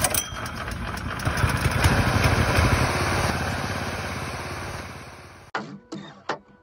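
Small petrol mower engine running steadily, fading away over its last couple of seconds, then cut off abruptly about five and a half seconds in; a few sharp clicks follow.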